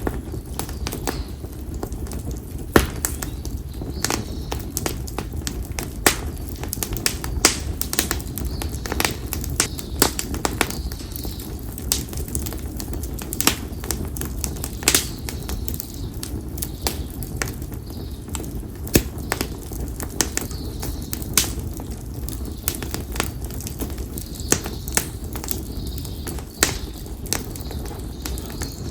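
Campfire of split konara oak (Quercus serrata) firewood crackling, with frequent sharp, irregular pops over a low steady rumble of burning. Faint bird calls come and go in the background.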